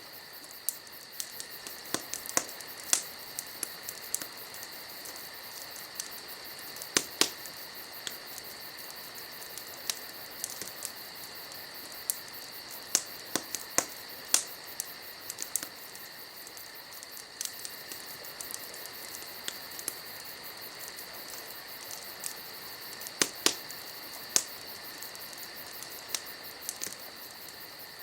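Wood campfire crackling, with irregular sharp pops and snaps scattered through, a few louder ones around two, seven and twenty-three seconds in. Crickets trill steadily in the background.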